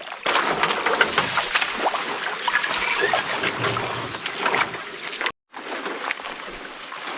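Water sloshing and splashing with irregular steps as people wade along a trail where a creek runs through it, with the sound of the flowing creek water underneath. The sound drops out for a moment about five seconds in.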